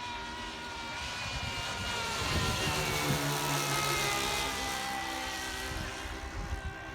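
Gas engines of a radio-controlled Seagull Cessna 337 Skymaster model, front and rear in push-pull, running as it flies past. The sound swells toward the middle, and the engine notes fall in pitch as it goes by, then ease off a little.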